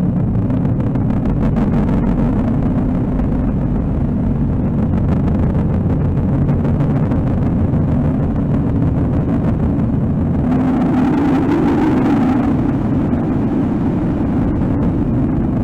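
Dense, loud low rumbling drone from an experimental dark-ambient noise composition, with a brighter hissing swell rising over it about ten and a half seconds in and fading two seconds later.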